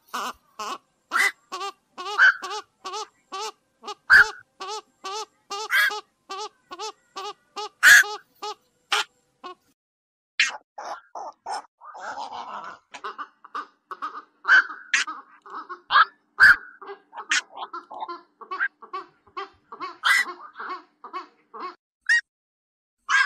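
Black-crowned night heron (vạc) lure calls: short, harsh, duck-like croaks repeated about three a second, meant to draw night herons in. After a brief break near the middle the calls come in a looser, uneven run.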